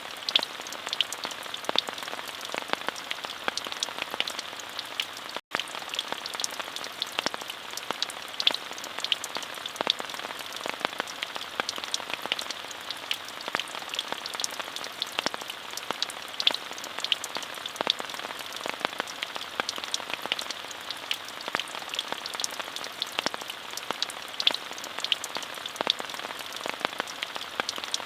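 Steady rain with many distinct, close drop hits scattered over an even hiss. The sound cuts out for an instant about five seconds in.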